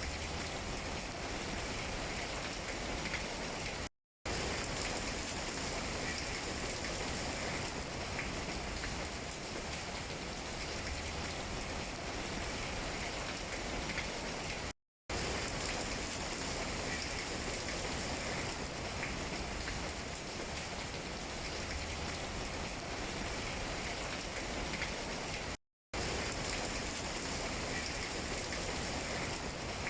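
Steady rain falling on tree leaves, an even hiss. The sound cuts out completely for a fraction of a second three times, about eleven seconds apart.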